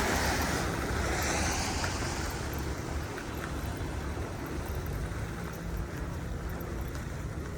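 Street traffic: a passing vehicle's tyre and engine noise, loudest at first and fading over the first few seconds, over a steady low rumble of city traffic.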